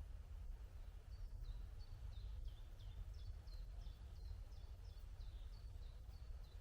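A small songbird singing a fast series of short, high, downward-sliding notes, two or three a second, starting about a second in, over a faint low rumble.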